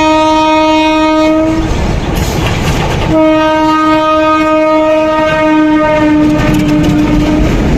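Indian train's locomotive horn sounding two long blasts, the first ending about a second and a half in and the second starting about three seconds in and holding for some four seconds, over the running noise of the train.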